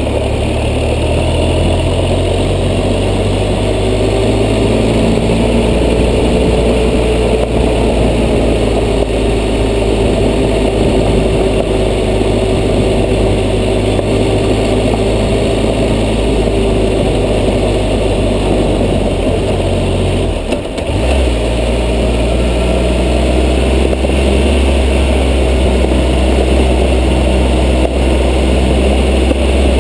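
Adventure motorcycle engine running steadily while riding along a dirt road. About two-thirds of the way through it briefly dips, then comes back with a stronger low note.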